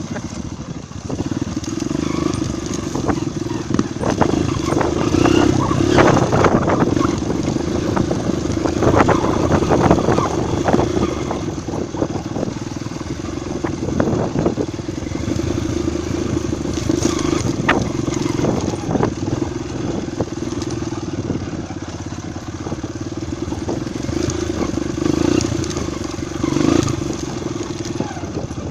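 Single-cylinder four-stroke trail motorcycle engine running while riding a rough dirt trail, its level rising and falling with the throttle. Scattered knocks and rattles are densest about four to eleven seconds in.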